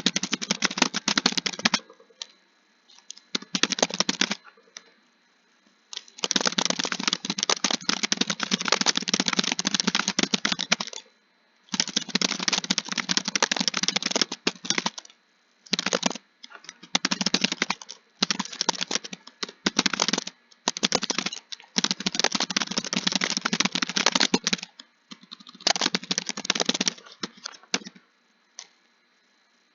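Fast typing on a computer keyboard, keys clattering in long runs broken by short pauses, with a longer pause a few seconds in.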